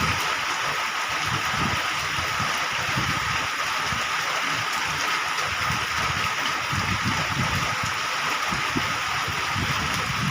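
Steady heavy rain falling, an even hiss of drops with the sound of running water, and irregular low rumbles underneath.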